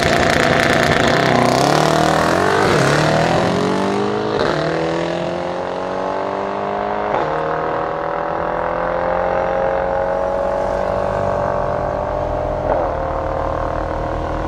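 A Mercedes-AMG E63 S's 4.0-litre twin-turbo V8 and a second Mercedes engine at full throttle from a standing start. Engine pitch climbs through each gear and drops at each upshift, the shifts coming about every one to three seconds and then one long last gear. The sound grows somewhat fainter as the cars pull away.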